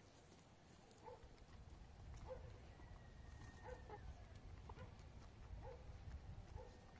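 Faint short call repeating evenly about once a second, over a low rumble like wind on the microphone.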